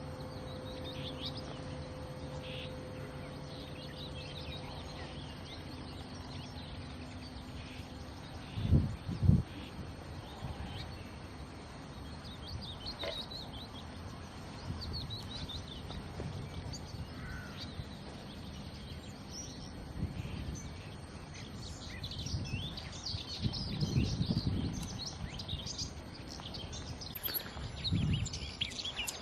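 Small birds chirping in short, scattered high calls that grow busier near the end, over outdoor background noise. A steady low hum runs for the first several seconds, and two loud low thumps come about nine seconds in.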